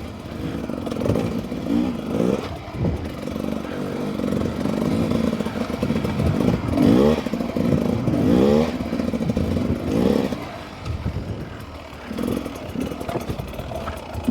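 Beta 300 RR two-stroke dirt bike engine revving up and backing off over and over as it is ridden through whoops and turns, with a quieter stretch shortly before the end.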